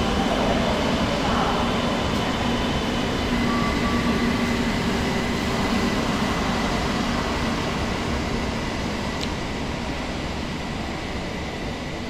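CRH2E electric multiple unit rolling slowly through a station: steady train running noise with a few held tones over it, fading over the last few seconds as the end of the train goes by.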